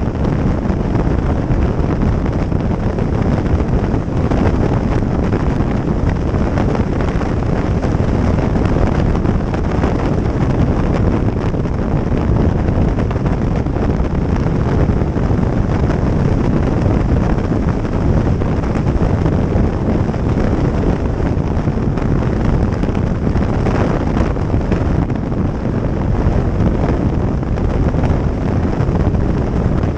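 Wind rushing over the microphone of a moving motorcycle, a loud steady rush with the bike's running noise underneath.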